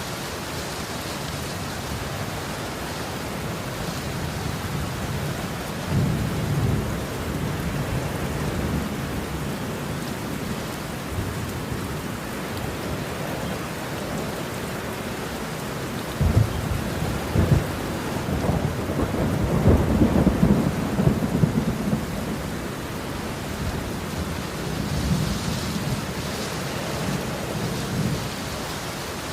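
Steady rain falling, with rolls of thunder: a short rumble about six seconds in and a longer, louder one starting about sixteen seconds in and lasting some six seconds.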